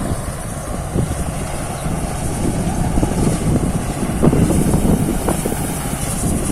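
Thai Seng Yont 'Chao Phayu Thoranong' rice combine harvester running steadily while cutting and threshing rice, with some wind noise on the microphone.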